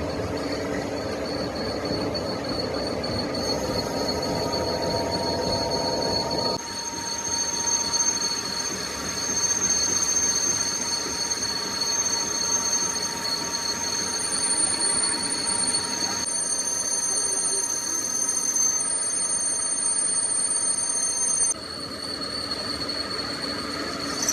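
Steel being cut on a machine tool, a steady high-pitched squeal of several whining tones over cutting noise that changes abruptly several times.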